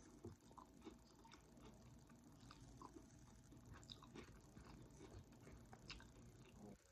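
Faint chewing of a mouthful of rice bowl, with the mouth closed: scattered quiet, wet mouth clicks and ticks.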